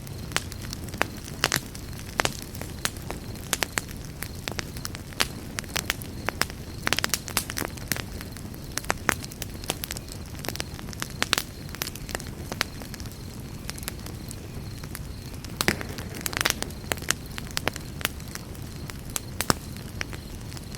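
Campfire crackling: irregular sharp pops and snaps of burning wood over a steady low rumble of flame, with small clusters of pops about 7 and 16 seconds in.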